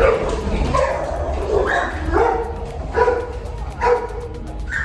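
A small dog yipping and barking in short, high calls about once a second, over a steady low rumble.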